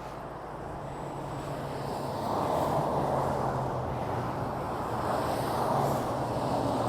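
Steady rush of highway traffic on the interstate, swelling about two seconds in, with a low steady drone underneath.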